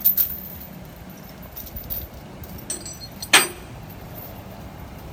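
Scattered light metallic clinks, then one loud sharp metal clank with a short ring about three and a half seconds in, over a steady low rumble.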